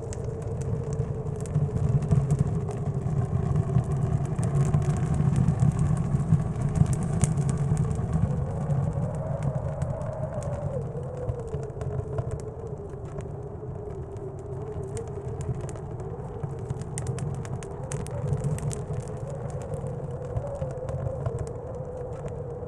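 Blizzard wind outside, a deep rumble with a wavering, howling whistle that rises and falls in pitch, stronger through the first half. Many small, sharp crackles of a wood stove fire sound over it.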